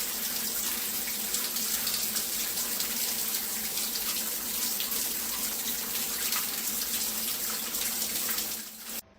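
Steady rush of running water that cuts off abruptly near the end.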